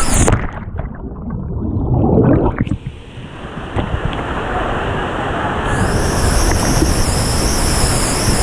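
A plunge into the river: a splash, then about two seconds of muffled, gurgling underwater sound with the high end cut off, then a steady rush of water. The sound grows brighter about six seconds in.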